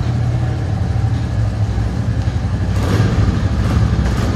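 Royal Enfield Classic 350 single-cylinder motorcycle engines idling with a steady low thrum. A brief rush of noise comes about three seconds in.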